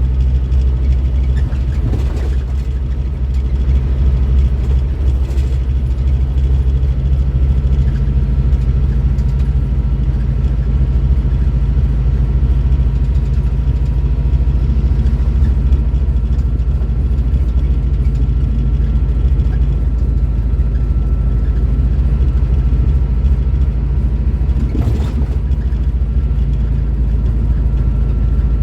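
Scania K310IB bus's diesel engine running steadily, a deep even drone, with a faint high whine coming in about eight seconds in.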